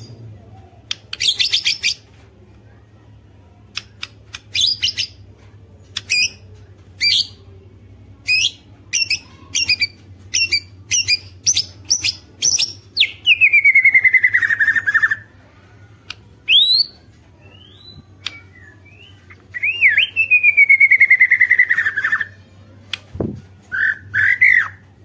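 White-rumped shama (murai batu) singing: bursts of rapid clicking 'ketrek' rattles over the first half, then long whistled notes sliding downward, twice, with shorter phrases near the end.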